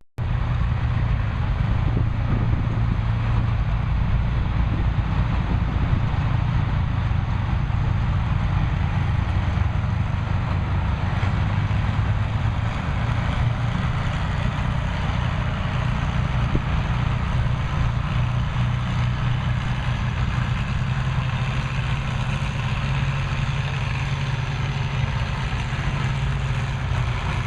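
Farm stock pulling tractor's engine running steadily with a deep, unchanging note.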